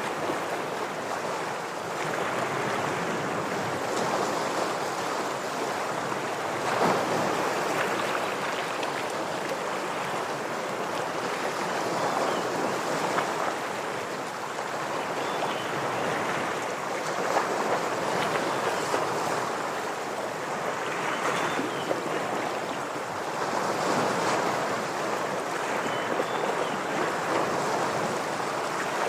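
Ocean waves washing and breaking against shore rocks, a steady surge that swells and eases every few seconds, with a few faint high chirps.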